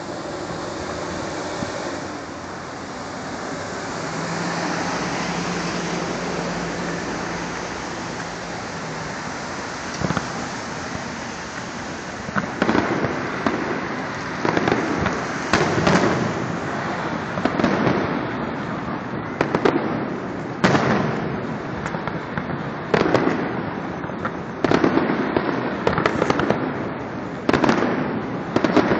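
Fireworks going off: after a stretch of steady background noise, loud bangs start about twelve seconds in and come irregularly, roughly one every second or two, each with a short echoing tail.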